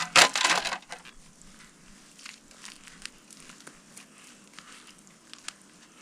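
Rustling, crinkling handling noise, loud for about the first second, followed by faint scattered clicks and crackles.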